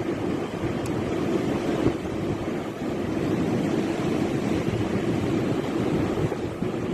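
Strong wind blowing and buffeting the microphone: a steady, rough rushing noise that swells and dips slightly.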